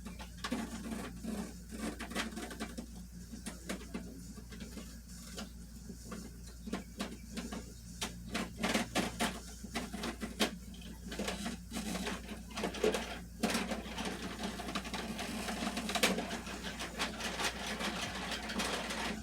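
Irregular run of light plastic clicks and knocks, with a faint steady hum under them, from a toy garbage truck at work.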